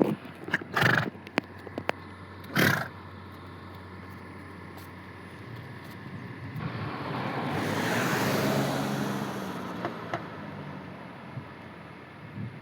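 A vehicle passing by, its noise swelling, peaking about eight seconds in and fading away, after two short rustling bursts in the first three seconds.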